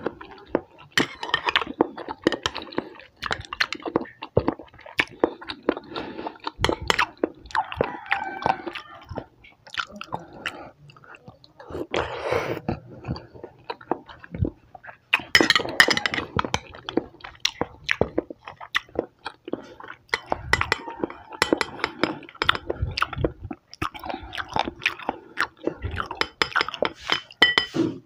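Close-miked chewing and wet mouth sounds of a person eating creamy buko salad (young-coconut fruit salad) by the spoonful, in an irregular run of smacks and clicks. A metal spoon clinks briefly on the glass cup near the end.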